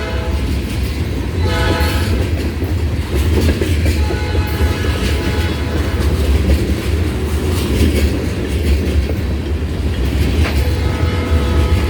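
Freight train passing, with a steady low rumble and wheels clicking over the rail joints. A short locomotive horn blast sounds about a second and a half in, and a horn note comes again near the end.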